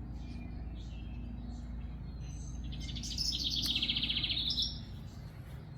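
Songbirds chirping, with one bird singing a loud, rapid trilled phrase about three seconds in, over a steady low rumble.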